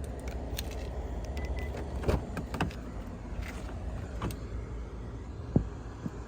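Handling noises at a car's rear door and cabin: a few scattered clicks and knocks over a low steady rumble, with one sharper knock about five and a half seconds in.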